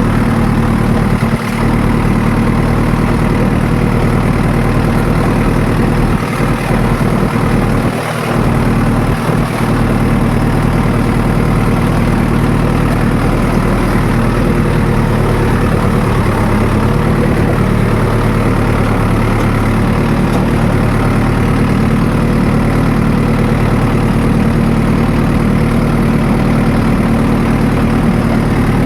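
Mahindra Yuvo 585+ 4x4 tractor's diesel engine running at a steady speed, its pitch holding even throughout with a few brief dips in level.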